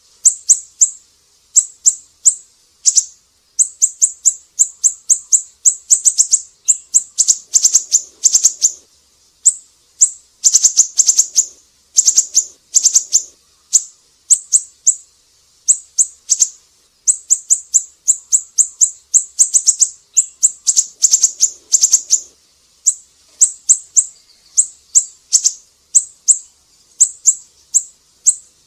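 Siri-siri bird singing: rapid trains of short, very high, sharp chirps, in bursts of several notes separated by brief pauses. It is a masteran song recording used to tutor caged songbirds.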